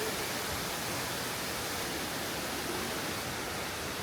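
Steady, even rush of water falling at the Ulu Petanu Waterfall.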